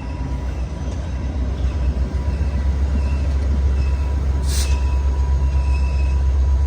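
Diesel locomotive of a VIA Rail passenger train idling while standing at a station, a steady low hum. A short hiss of air comes about four and a half seconds in.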